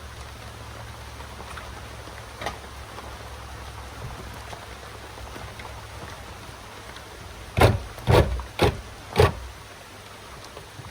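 Four loud, sharp knocks about half a second apart, over a steady hiss of rain and a low hum.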